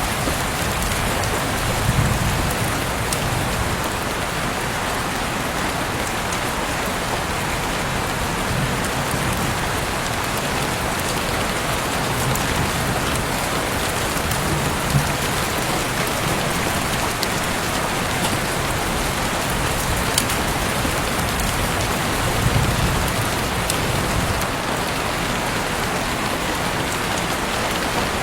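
Heavy rain falling steadily, heard through an open window: a dense, even hiss of rain with scattered sharper drop hits and a few soft low swells now and then.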